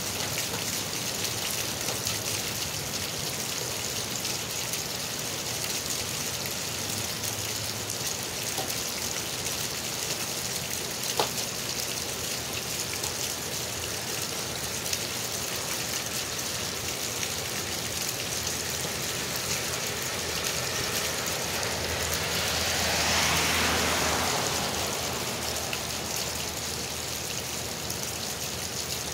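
Steady rain hissing on pavement while water gushes from a pipe outlet and splashes onto the wet ground. About three-quarters of the way through, a vehicle passes on the wet road, swelling and fading. There is one sharp tap about 11 seconds in.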